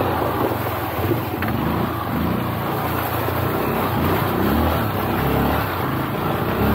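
Trail motorcycle engine revving up and down under load, its pitch rising and falling repeatedly.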